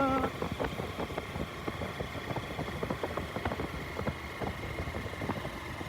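Motorcycle running at low speed over a rough unpaved road, with irregular knocks and rattles throughout.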